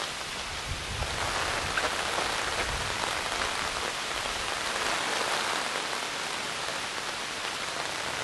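Steady rain falling, an even hiss of drops on the ground and foliage, with some low rumbling in the first few seconds.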